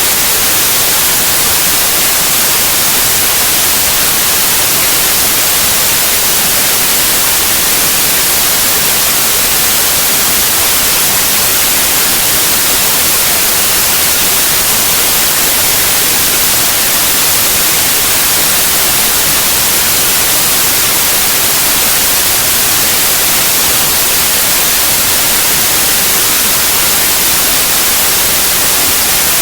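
Steady, loud white noise: an even hiss with no tones or changes, brightest in the high end.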